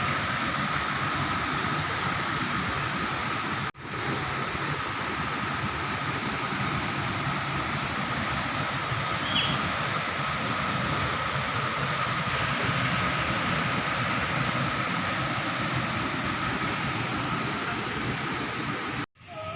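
Waterfall's water rushing in a steady roar of white noise, cut off abruptly for a moment about four seconds in and again just before the end.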